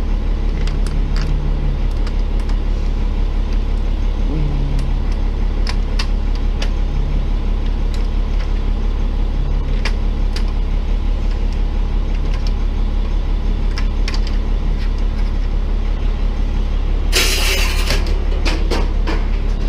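Tow truck engine idling steadily, with scattered clicks and knocks throughout. About 17 seconds in comes a loud hiss of air lasting about a second.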